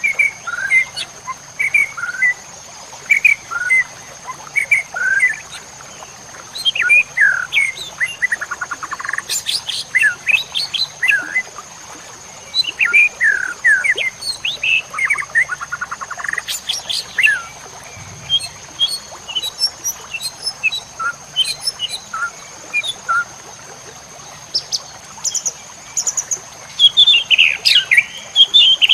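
White-rumped shama (murai batu) singing a varied song of short whistles, chirps and rapid trills in quick phrases, busier and higher near the end. A steady thin high tone runs underneath.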